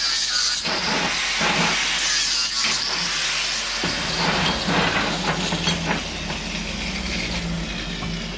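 Angle grinder grinding back weld tacks on steel flat bar: a steady, harsh grinding hiss, with the grinder motor's hum coming through more clearly from about halfway in.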